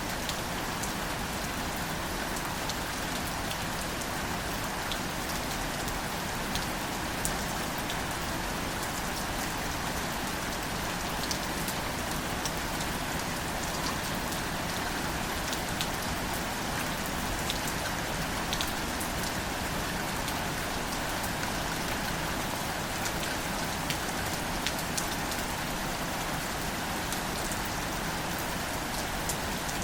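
Gentle, steady rain falling on wildflowers: an even hiss with scattered individual drop hits throughout.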